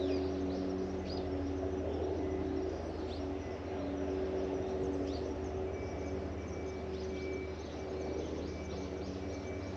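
Birds chirping now and then, short falling calls, over a steady low machine hum. A thin high steady tone comes in about six seconds in.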